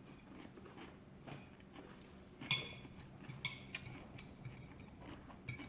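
Faint clinks and clicks of cutlery against plates during a meal, a handful of separate strikes spread out with a short ring.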